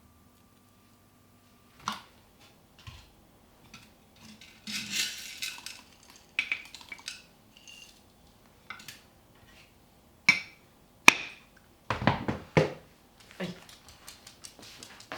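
Dishes and cutlery being handled and set down on a table: scattered clinks and knocks, with a few sharp loud clinks about ten and eleven seconds in.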